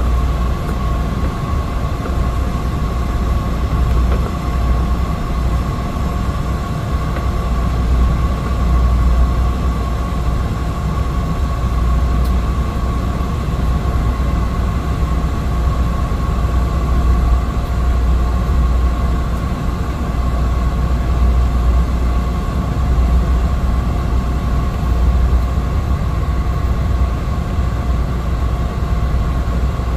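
Cabin noise of a Cessna 208 Caravan with its single PT6A turboprop running steadily: a loud, even low drone with a constant whine over it.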